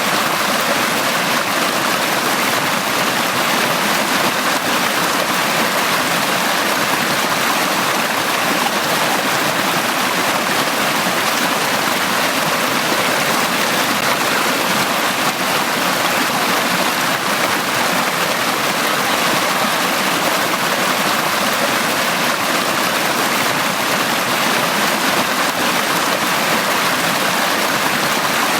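Mountain valley stream flowing steadily over rocks, a constant rushing and splashing of water with no breaks.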